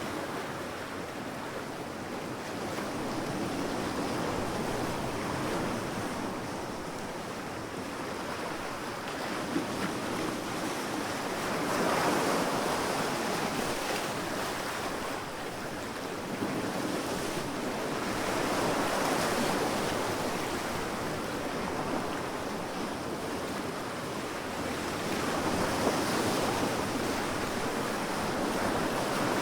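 Sea waves washing onto a beach, a continuous surf wash that swells with each breaking wave about every seven seconds, with some wind on the microphone.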